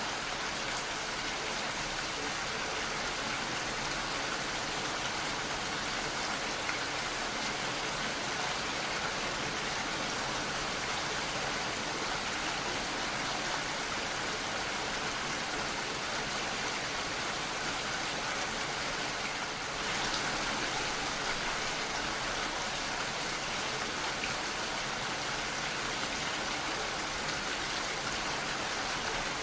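Steady rain falling, an even hiss of many drops, with a brief dip and a slight lift in level about twenty seconds in.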